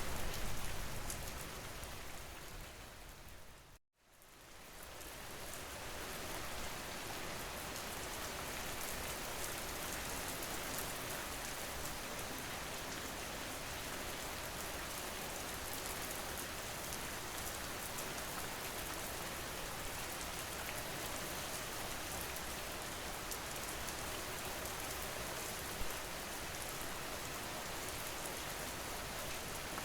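Steady rain ambience, rain falling on a surface with fine drop patter. It fades out to a moment of silence about four seconds in, then fades back up and stays steady.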